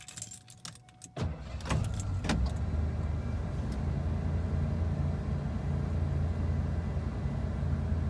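Keys jangling at the ignition, then a 1990 Ford F-250 pickup's engine starts from cold about a second in, with a few rough strokes as it catches, and settles into a steady idle.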